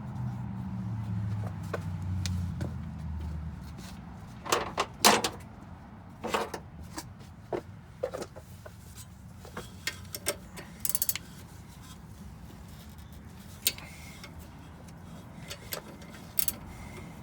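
Scattered metallic clinks and clicks of hand tools, a socket and wrench being handled and fitted, with the loudest cluster about five seconds in. A low hum fades out over the first few seconds.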